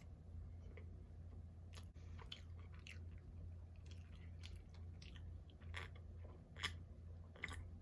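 Chips being bitten and chewed close to the microphone: faint, irregular crunches.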